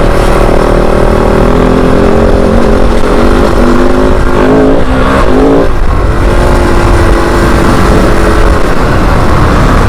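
Kove 450 Rally's single-cylinder engine running steadily under way over a constant low rumble. About four seconds in the pitch steps up and down with the throttle, dips off just before six seconds, then holds steady again.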